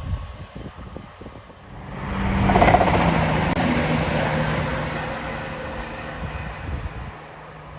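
CrossCountry Voyager diesel train passing at speed: its engine hum and the rush of the train swell quickly about two seconds in, peak, then fade slowly as it goes away.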